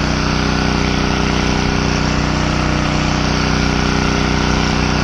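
Gas engine of a pressure washer running steadily, with the hiss of the spray wand's magic tip blasting bleach solution at the siding.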